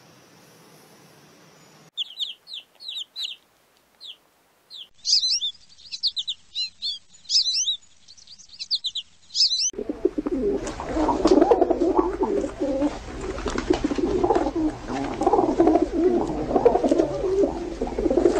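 Short, high bird chirps in quick series through the first half, then rock pigeons cooing continuously from about ten seconds in, louder than the chirps.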